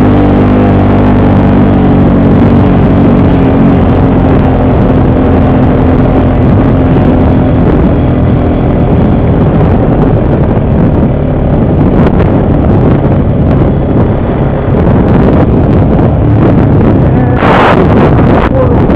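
ATV engine running steadily under way on a dirt trail, with wind on the microphone. A short sharp noise comes near the end.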